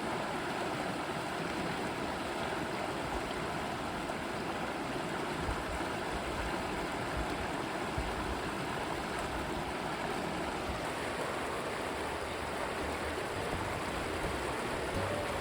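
Clear river water rushing steadily over rocks, an even, unbroken flow.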